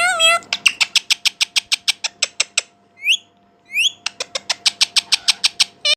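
Pet parrot vocalizing: a short call, then a fast run of sharp chirps at about eight a second, two rising whistles, and another fast run of chirps.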